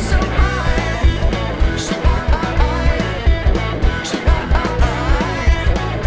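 Rock band playing with electric guitar, bass and drums on a steady beat, with a sung vocal line.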